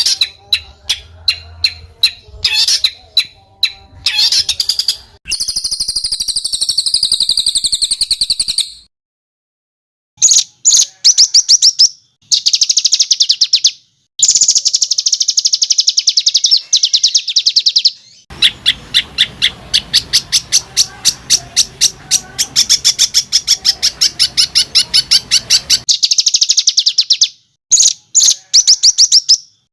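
Songbird song built of rapid, harsh trills of closely repeated high notes, the fast 'tembakan kasar' phrases used to train competition birds. The phrases come in spliced segments that start and stop abruptly. One stretch is a wavering buzzy note, and there is a silent gap of about a second and a half around a third of the way in.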